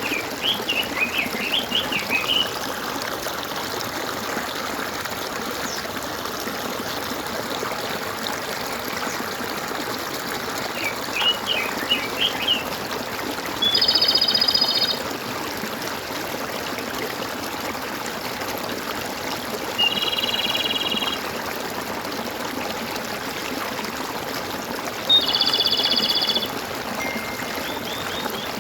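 Steady flowing and trickling of a stream with songbirds calling over it. There are two runs of quick chirps, one at the start and one about eleven seconds in, and three buzzy calls about a second long, each some six seconds apart, in the second half.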